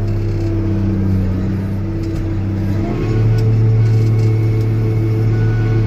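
Old Steiger tractor's diesel engine running under load, its note stepping up slightly and getting louder about three seconds in as it picks up revs.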